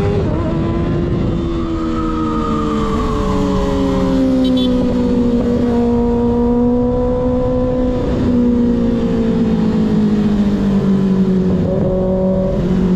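Sport motorcycle engine with an unbaffled slip-on exhaust, heard from on board at cruising revs: the pitch drops at the very start as revs fall, then holds fairly steady with slow small rises and dips, over a constant low rumble. A second engine is heard briefly rising and falling a couple of seconds in.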